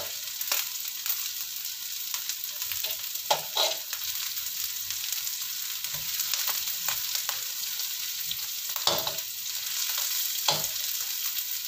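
Oil sizzling steadily in a wok as sliced shallots, garlic, chilli and dried anchovies fry until fragrant. A metal spatula scrapes and stirs across the pan a few times.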